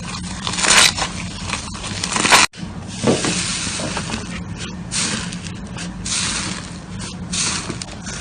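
Slime being squeezed and stretched by hand: irregular squishing bursts, one after another. The sound cuts out briefly about two and a half seconds in.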